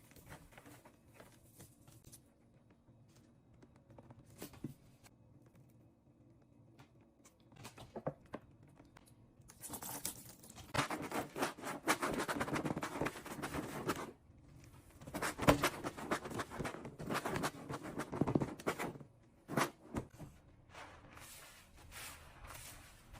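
Close cleaning noises: faint scattered clicks at first, then about ten seconds of loud, crinkly scraping and tearing-like noise broken by sharp clicks, quieting near the end.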